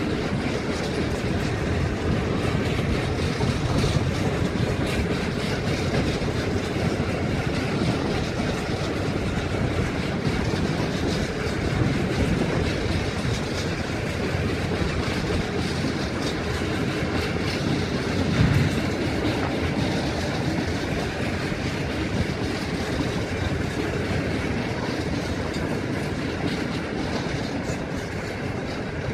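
A train of empty coal hopper wagons rolling past behind an 82 class diesel-electric locomotive: continuous rail noise with wheels clicking over the rail joints.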